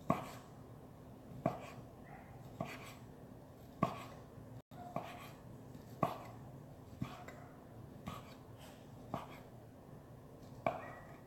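Kitchen knife slicing through sausages and knocking on a cutting board, about nine separate cuts spaced roughly a second apart.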